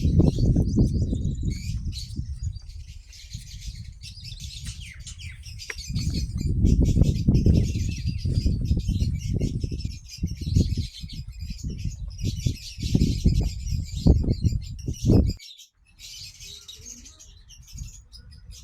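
Many small birds chirping continuously over a loud, irregular low rumble that rises and falls in surges. Both drop out for a moment about fifteen seconds in, then resume more quietly.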